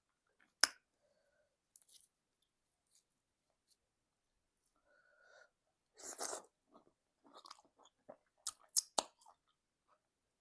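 Close-miked ASMR eating sounds of egusi soup with semolina: quiet chewing with scattered wet mouth clicks, a sharp click about half a second in and a louder burst of chewing noise around six seconds.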